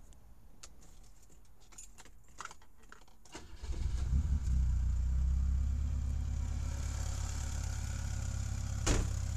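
Keys rattling at the ignition, then the BMW 2002 tii's fuel-injected 2.0-litre four-cylinder starts about three and a half seconds in and settles into a steady idle through its scorpion muffler. A sharp click sounds near the end.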